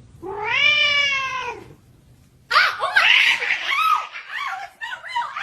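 A cat meowing: one long meow lasting about a second and a half, then after a short pause a rapid run of shorter meows and yowls.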